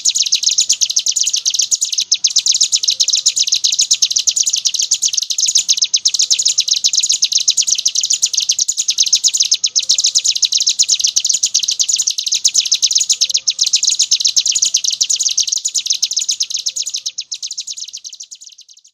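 Ciblek gunung (a prinia) singing non-stop in the 'ngebren' style: a rapid, unbroken, high-pitched chattering trill, fading out over the last few seconds.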